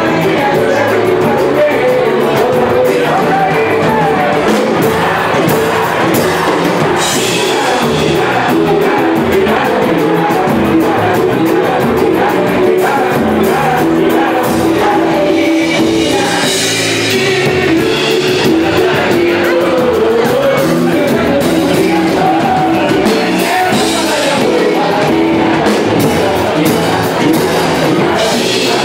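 Live band playing samba with a singer, percussion keeping a steady beat under the vocals.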